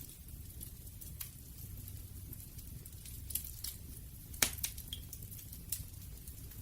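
Wood fire crackling: irregular sharp pops and snaps over a low steady rumble of the flames, with one louder pop about four and a half seconds in.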